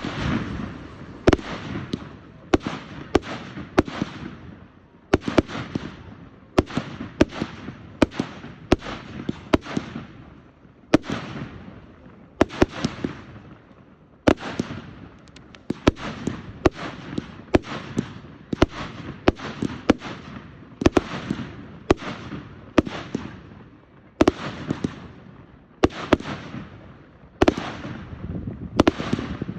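Fireworks going off in rapid, irregular volleys: sharp bangs, often several a second, each trailing off in a fading tail, with short lulls between the volleys.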